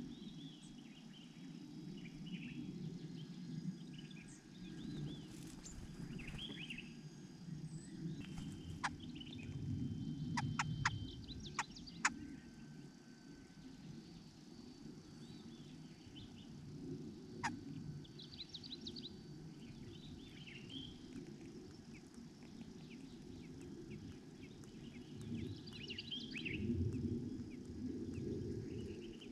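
Small birds chirping in short calls and trills, with a few sharp clicks in a cluster near the middle and one more later, over a steady low rumble.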